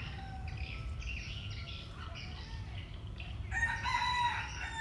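A rooster crowing once, about three and a half seconds in, after a few short chirping calls from birds.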